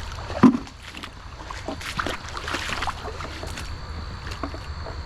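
Splashing and knocking in a shallow rocky creek: water sloshing, with scattered clacks against stones and one loud thump about half a second in.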